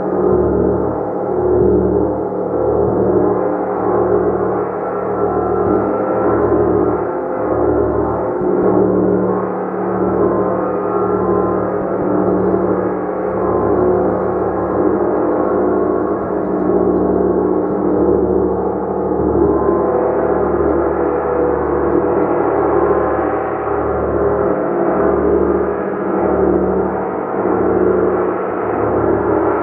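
A gong played continuously, a sustained, shimmering wash of many overlapping tones with a low throb that pulses beneath it.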